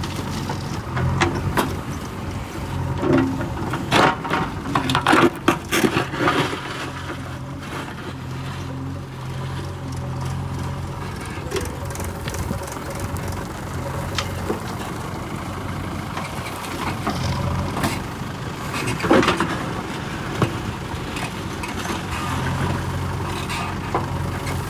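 Diesel engine of a JCB backhoe loader running steadily while it loads a tractor, working harder in stretches. Sharp metallic clanks and knocks come several times between about one and seven seconds in and once more near twenty seconds.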